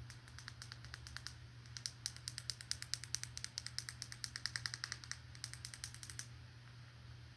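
Rapid, light, crisp tapping clicks, about eight a second, in three runs with brief pauses between them.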